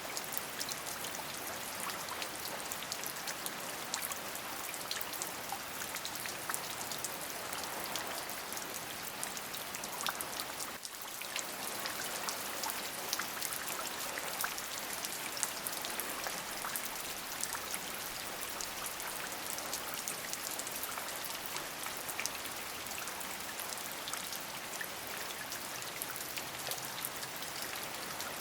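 Steady rain falling, with many separate drops ticking on a surface over the even hiss. The sound dips briefly about eleven seconds in.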